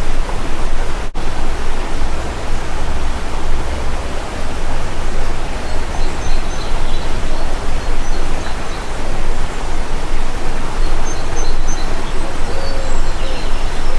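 Steady rush of a flowing stream, loud and even, with faint high bird chirps now and then.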